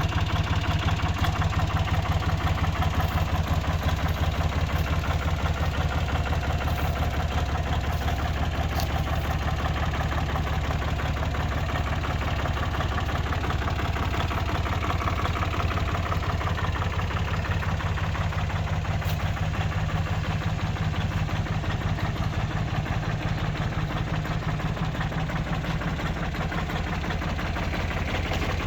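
Mitsubishi MT 301 HD compact tractor's diesel engine running steadily at idle, with a fast even pulse.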